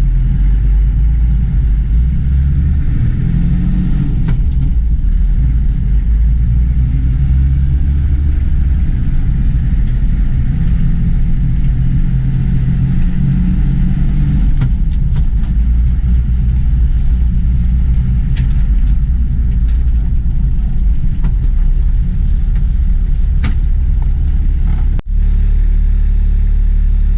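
Land Cruiser HJ45 diesel engine running with a steady low rumble.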